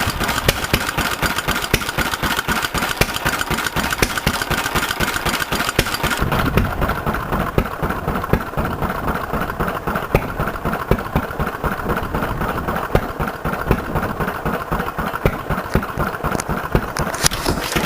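Pelapone Type FB four-stroke stationary engine of about 3 hp running steadily with a regular beat. About six seconds in, a high hissing sound drops away and the engine's beat goes on.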